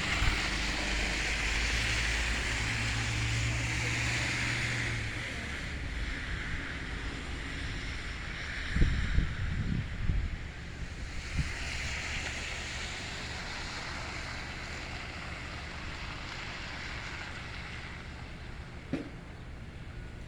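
Road traffic on a wet, slushy road: the tyre hiss of passing vehicles swells and fades twice. Wind thumps on the microphone about nine seconds in.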